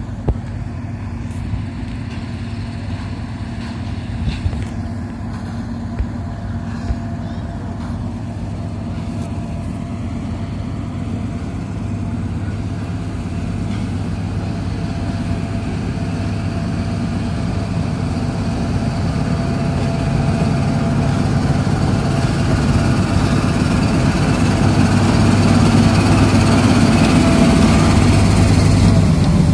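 Narrow-gauge train running with a steady engine hum that gets gradually louder, with a few light clicks in the first several seconds.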